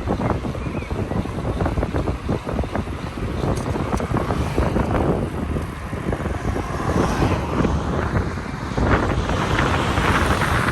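Wind buffeting the microphone of a camera riding on a moving bicycle: an unsteady rushing noise with a heavy low rumble, a little louder near the end.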